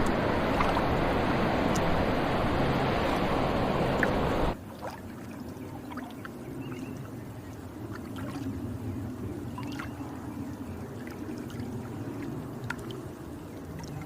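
A steady, loud rush of running water or wind that cuts off abruptly about four and a half seconds in. It gives way to a much quieter background of faint trickling, small ticks and a low hum.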